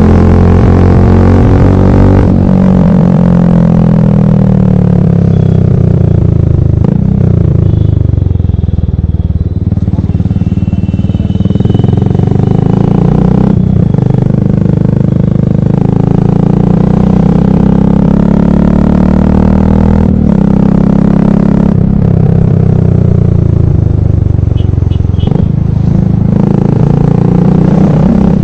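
Royal Enfield Classic single-cylinder motorcycle engine and exhaust running loud. Its pitch repeatedly falls and climbs again as the revs drop and rise, with a few short breaks.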